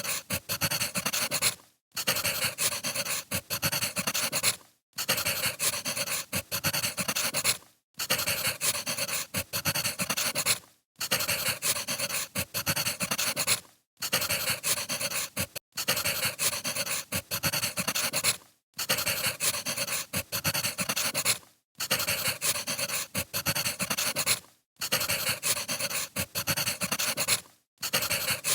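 Wood fire crackling and popping, a short recording looped so that it cuts out for a moment about every three seconds.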